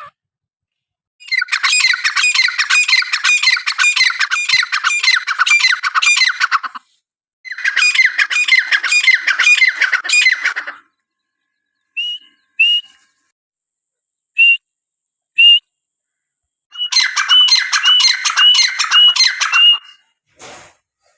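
Francolin (teetar) calling loudly: two long runs of rapid, harsh, repeated notes, then a few short clear whistled notes spaced apart, then another rapid run near the end.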